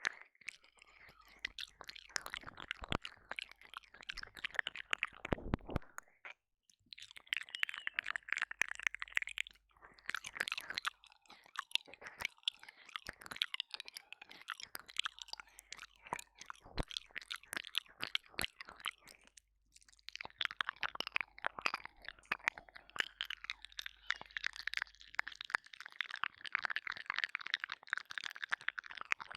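Close wet mouth sounds of ear licking and ear eating into a binaural microphone: dense clicking, smacking and crackling in bursts, broken by brief pauses.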